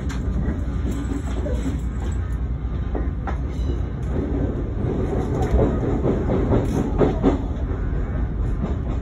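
Odakyu 3000 series electric commuter train running on the rails: a steady low rumble with wheels clicking over rail joints, the clicks coming thicker from about five seconds in.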